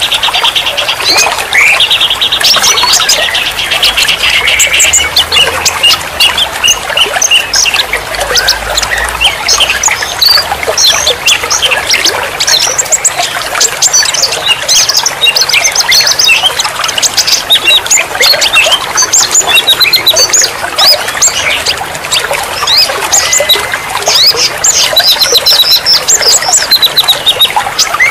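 Many small songbirds chirping and calling over one another without pause, over a steady trickle of running water. A fast buzzing trill holds for the first few seconds.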